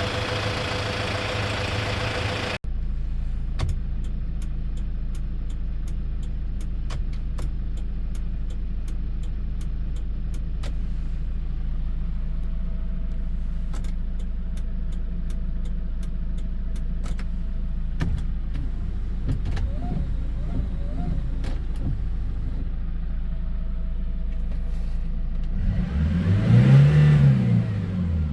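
Hyundai Porter II truck's diesel engine idling with a steady low rumble and light ticking, then revved once near the end, its pitch rising and falling back. A louder, hissier engine sound at the very start cuts off abruptly.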